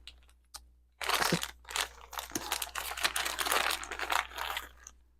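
Small plastic bags crinkling and rustling as hands rummage through them, starting about a second in and stopping near the end.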